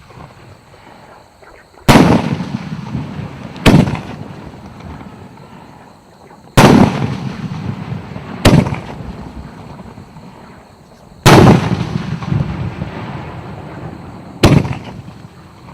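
Professional 100 mm fireworks battery firing its shells: six loud booms a few seconds apart, each fading out in a long rolling echo.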